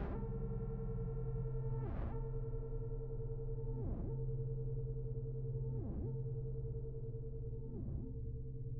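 Eurorack modular synthesizer patch with an OXI Coral voice: a steady, many-harmonic drone with a quick swept chirp about every two seconds, each chirp fainter than the last.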